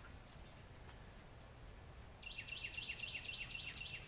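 A bird's rapid trill of high, quickly repeated notes, about five or six a second, starting about halfway in over faint outdoor background.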